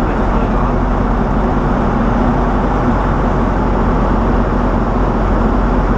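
Steady motor-vehicle engine and road drone, even and unchanging throughout.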